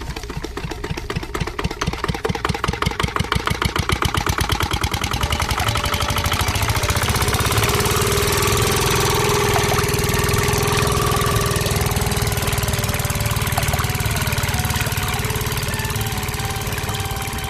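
Small engine of a DIY mini tractor, its beats quickening over the first few seconds, then running steadily.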